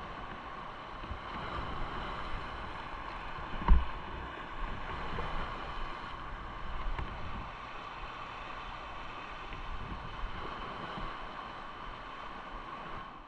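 Motorcycle ride-along noise: engine and road rumble with wind on the microphone, and a single sharp thump about four seconds in.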